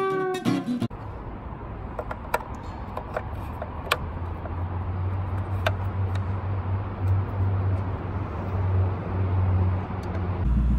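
Ford Mustang GT's 5.0 V8 idling with a steady low hum, heard from the open engine bay. A few sharp clicks sound as the oil filler cap is screwed back on. A guitar tune ends in the first second.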